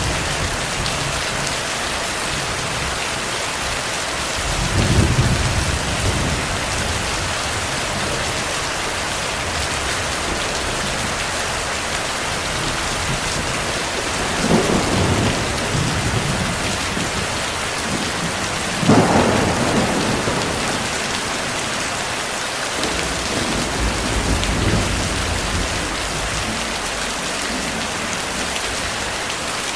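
Heavy, steady rain with distant thunder, several low rolls of thunder swelling up and fading away through it.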